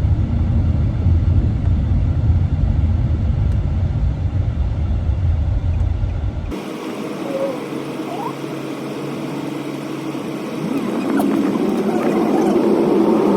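Steady low road rumble inside a moving car's cabin. About six and a half seconds in it cuts off abruptly to a quieter recording with faint voices.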